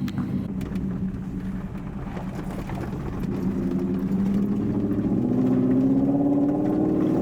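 Toyota Tundra pickup's engine running steadily, then accelerating from about three seconds in, its note rising and getting louder.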